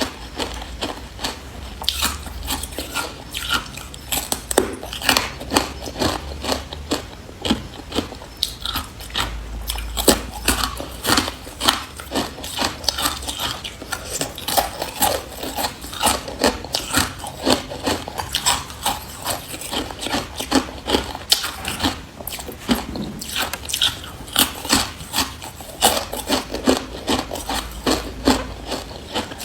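A person biting and chewing hard carbonated ice close to the microphone: a steady, irregular run of sharp crunches and cracks, several a second.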